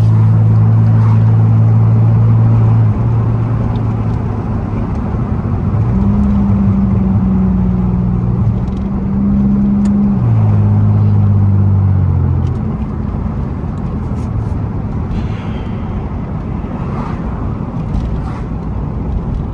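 Muffler-deleted 3.8-litre V6 exhaust of a 2002 Pontiac Grand Prix GT on the move. A steady loud drone drops about three seconds in, comes back at a higher pitch around six seconds, shifts pitch twice more, then falls away after about twelve seconds, leaving road noise.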